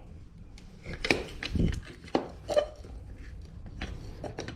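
Hard clicks and knocks of a tool against a metal wiper linkage as a pop-on linkage arm is pried at its ball pivot: four sharper knocks in the first half, then lighter ticks.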